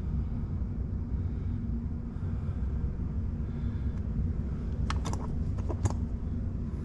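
A steady low rumble in the background, with a brief cluster of sharp clicks and taps about five seconds in, typical of hard plastic dashboard trim being handled.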